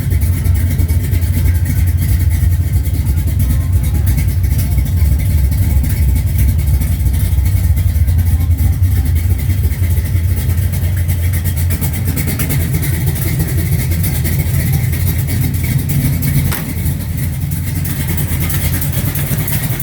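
1969 Dodge Charger R/T's heavily cammed 440 big-block V8 running loud and choppy at idle. The owner says it has a small exhaust leak and needs a tune-up.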